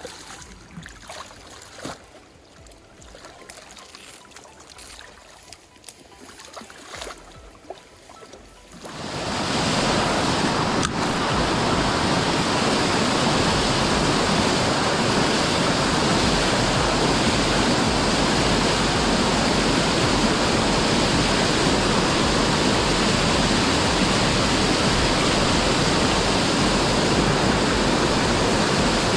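A few faint clicks and knocks, then about nine seconds in a loud, steady rush of water sets in and carries on unbroken: a waterfall on a river in spate.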